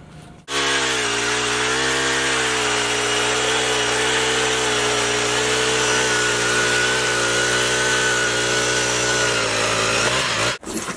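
Power ice auger running steadily as it drills through the ice, its motor note wavering slightly. It cuts in about half a second in and stops shortly before the end.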